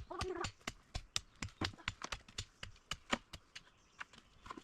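An irregular run of sharp clicks and knocks, about three to four a second, from hand tools at work in soil and wood.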